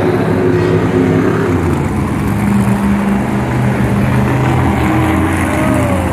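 Monster truck's supercharged V8 engine running loud, its note shifting in pitch with the throttle about a second and a half in.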